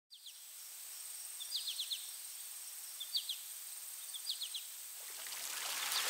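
Outdoor nature ambience: a bird calling in short phrases of three or four quick high chirps, about every second and a half, over a steady thin high tone and hiss. A swell rises near the end.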